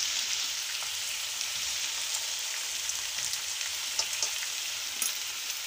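Tripe and sliced onions sizzling steadily in hot mustard oil in a frying pan, with a few faint clicks near the end.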